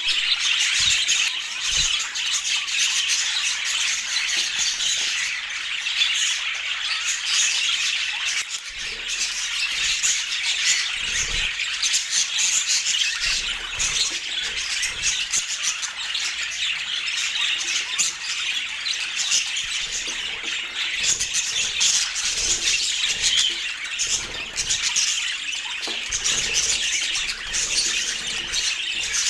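Budgerigars calling in a steady, dense chatter of high-pitched calls.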